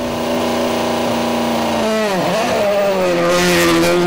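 Rally car engine running hard at steady high revs, then a quick dip and recovery in revs about halfway through, with a hiss rising near the end.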